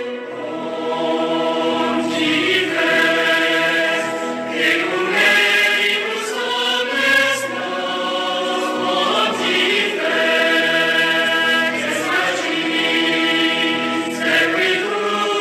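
A choir singing, with long held notes that change every second or two.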